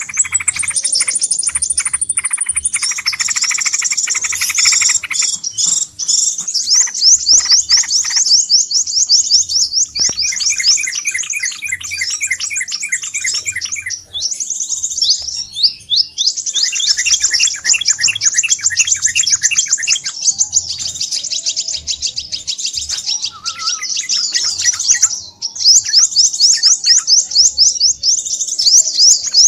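Crimson sunbirds calling excitedly: dense, rapid, high-pitched chirping trills from several birds overlapping, with a lower chirping series joining in now and then. It is a lure recording used to draw sunbirds in.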